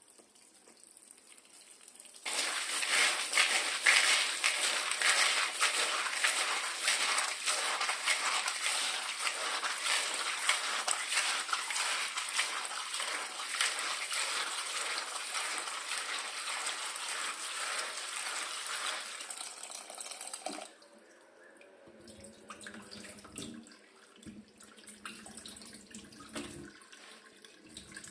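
Kitchen tap running into a sink for about 18 seconds, starting a couple of seconds in and shut off abruptly; quieter light knocks and handling sounds follow.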